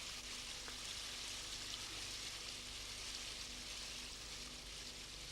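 Faint, steady hiss of river water rushing over a weir.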